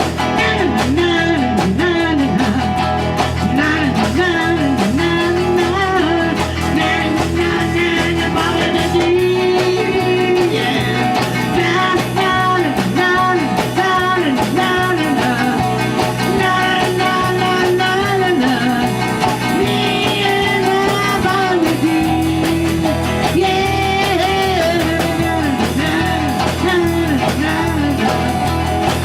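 A small rock-and-roll band playing a bluesy song, with guitar to the fore over a steady beat.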